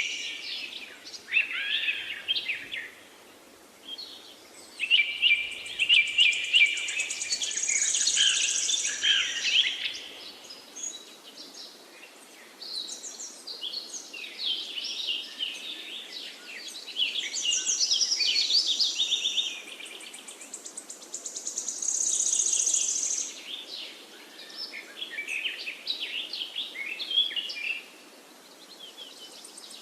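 Songbirds singing and chirping in phrases of rapid, high chirps and trills, several seconds long, with brief lulls between them, over a faint steady outdoor hiss.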